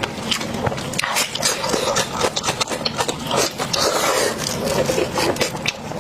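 Close-up sound of a person chewing and biting into pork offal, a dense irregular run of quick mouth clicks.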